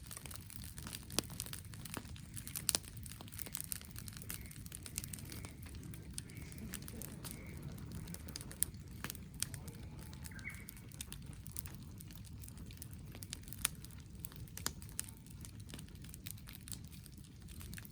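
Wood fire crackling, with frequent sharp, irregular pops and snaps over a low steady rumble.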